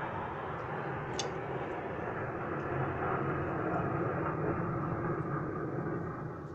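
Airplane flying by: a steady rushing engine noise that grows duller toward the end as it moves away, with a brief click about a second in.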